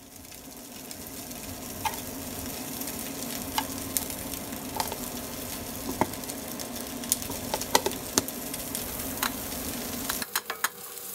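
Crab sticks and ham sizzling in an oiled grill pan: a steady frying hiss with scattered sharp pops. The pops come quicker near the end.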